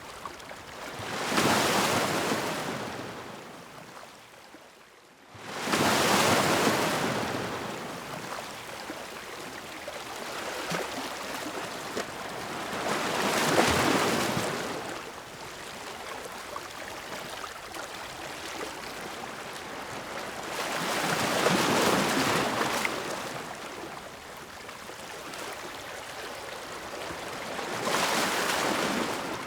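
Ocean waves breaking on the shore in a slow rhythm, five surges of surf each followed by a softer wash, one wave arriving suddenly after a brief lull about five seconds in.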